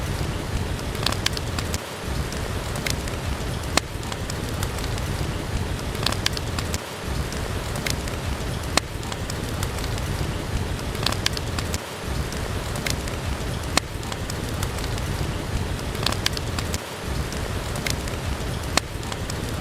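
Steady rain with sharp pops and crackles from a wood fire scattered through it.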